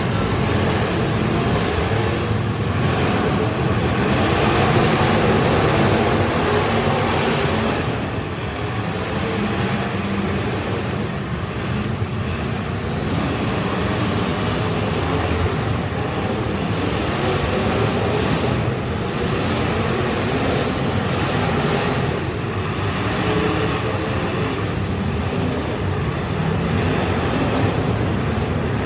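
Several demolition derby cars' engines running and revving together, a loud, continuous engine din that swells and eases.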